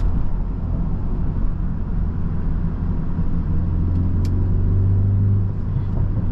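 Tuned BMW 330i's turbocharged four-cylinder engine and exhaust cruising at low speed, heard from inside the cabin as a steady low drone over road noise. The drone swells briefly a few seconds in, with a short click in the middle.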